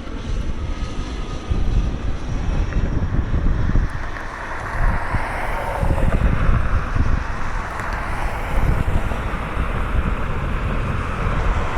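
Tri-jet airliner's jet engines passing on approach: a steady low rumble with wind buffeting the microphone, and a higher rushing hiss that builds about five seconds in.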